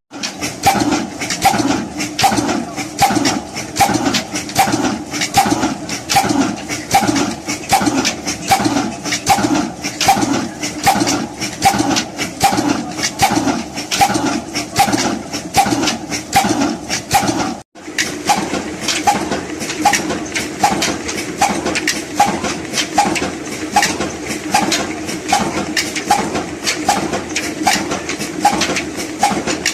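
Old Ruston Hornsby diesel engine running steadily, its firing strokes giving an even, rhythmic beat.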